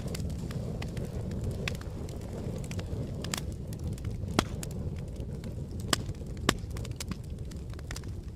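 Campfire burning: a steady low rumble with scattered wood crackles and sharp pops, the loudest pop about halfway through and two more a second or two later.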